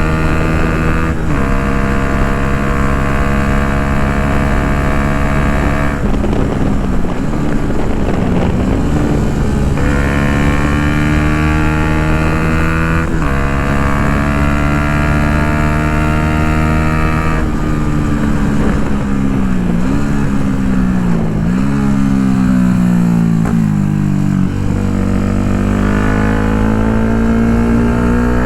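Yamaha MT-125's 125 cc single-cylinder four-stroke engine through an Akrapovic full exhaust, under way. Its note holds steady for several seconds at a time and drops abruptly twice. It turns rough for a few seconds, dips in pitch several times, then climbs again near the end.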